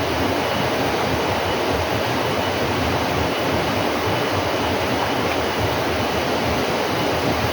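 Steady rushing of flowing water, an even loud noise with no breaks.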